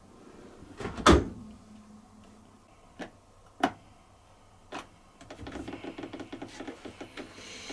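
Bosch dishwasher in service-test mode: a heavy thump about a second in, a few sharp clicks, then a fast, even rattle from the machine starting a little past halfway.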